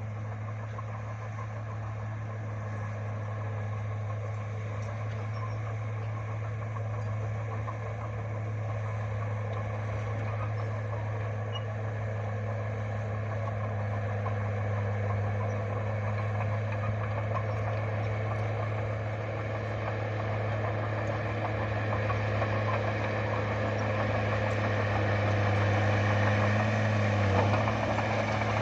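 Bulldozer's diesel engine running steadily, growing gradually louder, with a brief dip in pitch near the end.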